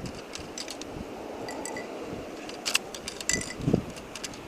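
Dickie Toys plastic logging truck worked by hand as its grab loads toy logs: scattered clicks and clatters, busiest a little past halfway.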